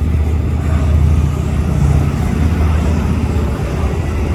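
Aircraft engine noise at an air show: a loud, steady low rumble with a broad hiss above it.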